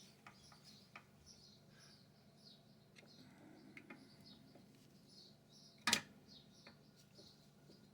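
Faint small clicks and taps of a screwdriver on the metal parts of a Johnson Model D fare box, with one sharper click about six seconds in. Faint high chirps repeat about twice a second behind them.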